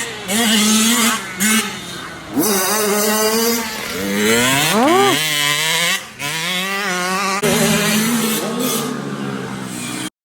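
Vintage motocross bikes' engines revving hard, the pitch rising and dropping with throttle and gear changes, with a sharp rising rev about five seconds in. The sound changes abruptly several times and cuts off suddenly near the end.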